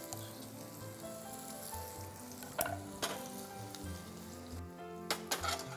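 Shallots, ginger and garlic sizzling in a stainless steel sauté pan, a soft steady hiss. A few sharp knocks break in, about two and a half seconds in and again near the end.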